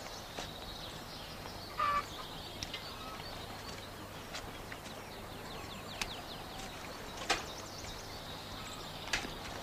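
Birds chirping and calling, with a louder short call about two seconds in and a few sharp clicks, over a faint steady hum.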